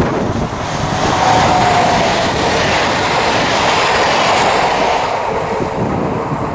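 Electric passenger train passing close by at speed: a loud, steady rush of wheel and air noise on the rails, with a faint whine about a second in.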